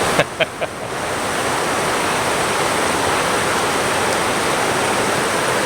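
Steady rushing of river water over shoals, an even hiss. Three short sharp clicks come in quick succession within the first second.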